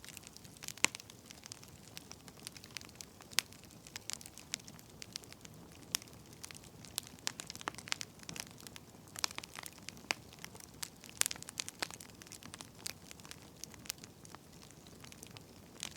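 Wood fire crackling: irregular sharp pops and snaps, several a second, over a faint low hiss.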